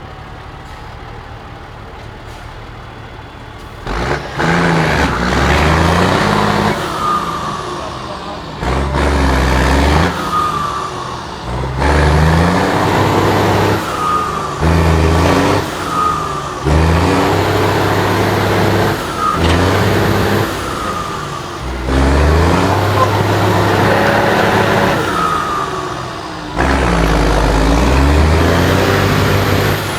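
Liaz 4x4 trial truck's engine running steadily at first, then revved hard in repeated surges of a second or two, the pitch climbing with each one, as it pushes through the off-road course.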